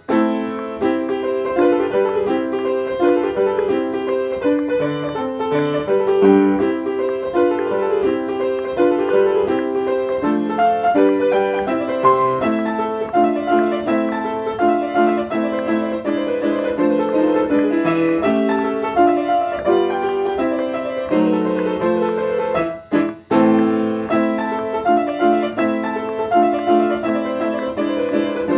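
Piano music: a steady flow of separate notes, with a brief break about three-quarters of the way through.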